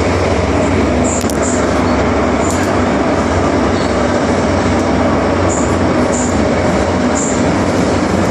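MTR Island Line subway train running between stations, heard from inside the car: a steady loud rumble of wheels and traction motors with a low hum. A couple of sharp clicks come between one and three seconds in.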